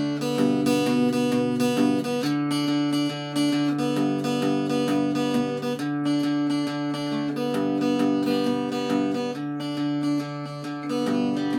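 Acoustic guitar strumming chords in a steady rhythm: the instrumental introduction of a song, before the vocals come in.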